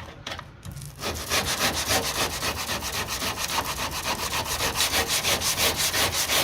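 Body filler on a car's steel door sill being sanded dry by hand with Abranet mesh abrasive: fast back-and-forth rasping strokes, several a second, starting about a second in. The abrasive is cutting cleanly without gumming up.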